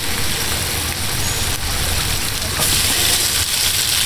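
Garlic, nuts and tomatoes sizzling in a frying pan, a steady hiss that grows louder about two and a half seconds in, over a low steady rumble.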